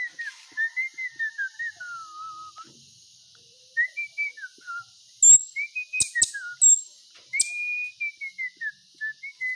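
Pet bird singing: clear whistled phrases that slide downward in pitch, broken by sharp, high chip notes, with a short pause about three seconds in.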